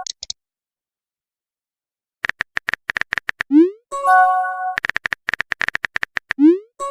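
Phone keyboard typing sound effects, rapid clicks in two runs. Each run is followed by a short rising pop and a brief chime, the sound of a text message being sent.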